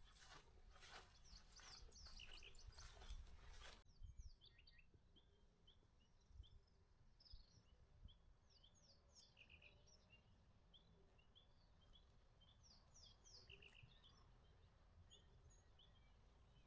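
Faint, very quiet bird chirps: short high notes repeated on and off. Soft rustling noises in the first few seconds stop abruptly about four seconds in.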